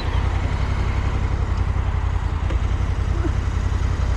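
BMW R 1200 GS boxer-twin motorcycle engine idling steadily through an SC Project exhaust, a loud, even, fast-pulsing low rumble.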